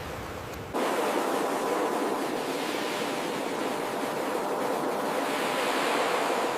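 Ocean surf: a steady rushing wash of waves. About a second in it cuts abruptly to a louder, brighter stretch with the deep rumble gone.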